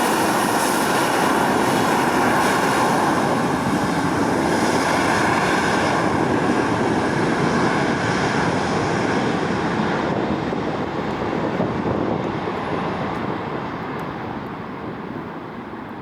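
Boeing 737-800's twin CFM56 jet engines running loud and steady, then fading over the last several seconds as the jet moves away, the high hiss dying out first.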